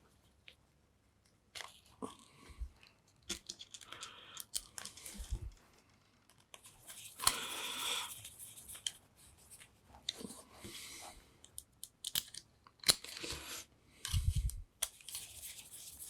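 Workbench handling noises: scattered sharp clicks and knocks of small parts, several stretches of rustling and crinkling, and a few dull thumps.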